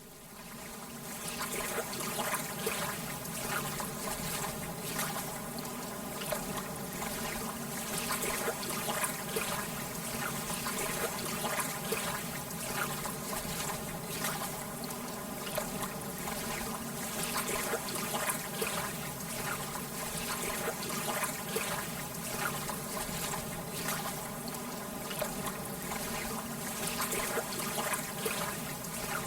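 Lake water lapping gently, a steady wash of small splashes and trickles, fading in at the start.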